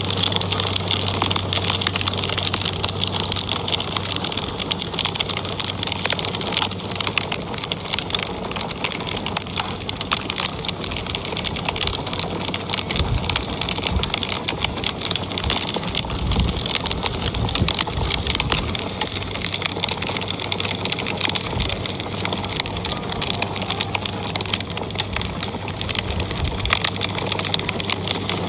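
Fireplace fire crackling steadily with a dense run of small pops and snaps, over a low steady hum.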